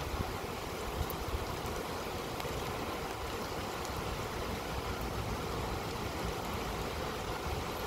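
Heavy rain pouring down in a steady hiss, with an uneven low rumble of wind gusts underneath.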